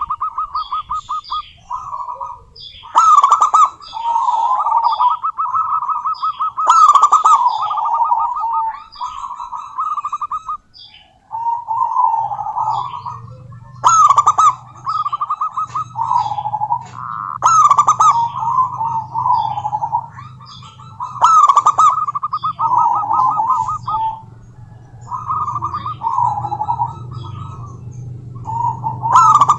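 Zebra doves cooing their rapid, trilled perkutut song, one phrase after another with short gaps, with sharp higher chirps where some phrases begin. A low steady hum runs underneath from about twelve seconds in.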